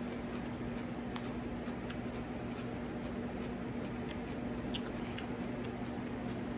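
A person chewing food, with a few small, sharp mouth clicks scattered through it, over a constant low electrical hum.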